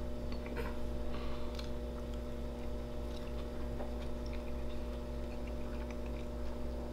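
Faint chewing of a bite of crispy fried potato cake, with small scattered crunches and clicks, over a steady low electrical hum.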